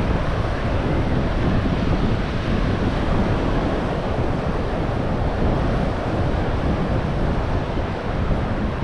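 Ocean surf and wind buffeting the microphone: a steady rushing noise, heaviest in the low end.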